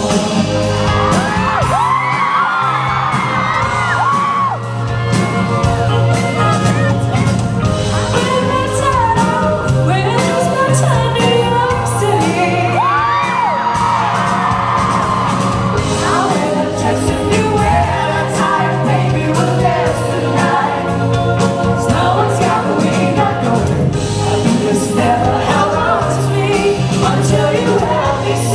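Live pop band performing with a sung lead vocal over bass and drums, the voice holding long sliding notes and runs, heard in the echo of a large concert hall.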